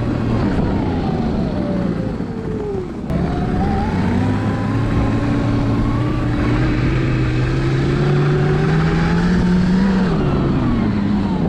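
Electric snowbike with a track kit riding: the motor's whine and the track drive's drone fall in pitch as it slows over the first few seconds, rise steadily as it speeds up again, and drop once more near the end.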